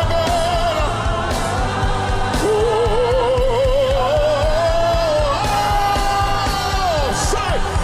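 Live worship band music with voices singing, a wavering sung line held over a steady bass and drum groove.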